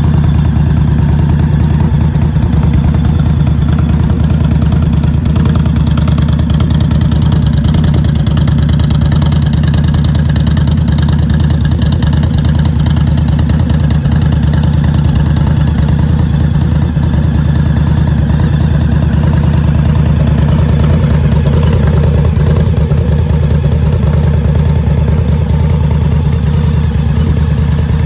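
Indian Scout motorcycle's liquid-cooled V-twin engine idling steadily.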